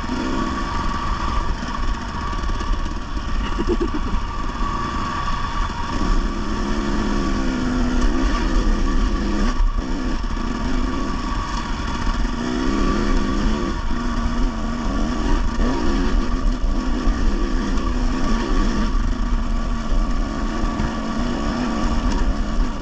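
Dirt bike engine running and revving up and down on the trail, its pitch rising and falling with the throttle and dipping briefly near the middle.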